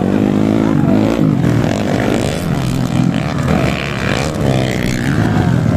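Underbone motorcycle engines revving hard, their pitch rising and falling, with more than one engine heard at once.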